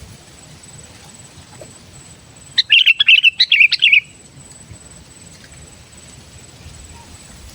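Sooty-headed bulbul (kutilang) singing one short, loud phrase of quick chirps, about a second and a half long, a few seconds in.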